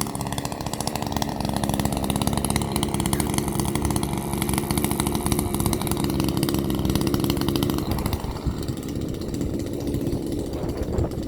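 Gasoline chainsaw running at full throttle as it cuts through an oak log, then dropping to lower revs about eight seconds in.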